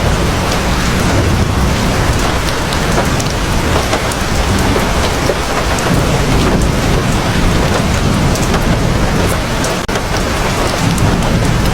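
Heavy rain pouring steadily, a dense hiss with scattered drops ticking on top and a low rumble underneath.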